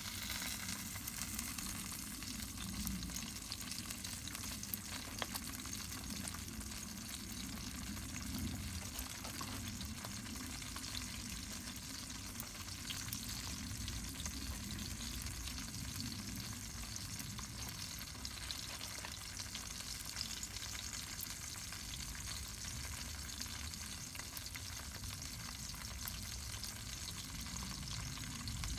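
Wood fire crackling and hissing steadily, with scattered sharp pops.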